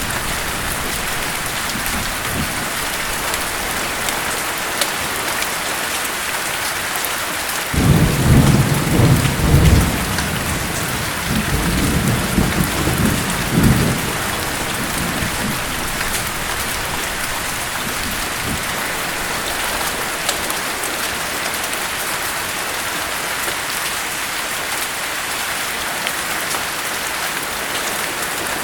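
Steady heavy rain hissing throughout, with a roll of thunder that breaks in suddenly about eight seconds in and rumbles in several low surges for about six seconds before fading back into the rain.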